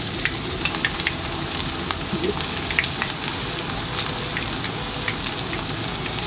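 Batter-coated chicken pieces (karaage) frying in hot oil in a frying pan: a steady sizzle with many scattered crackles and pops as more pieces are lowered in.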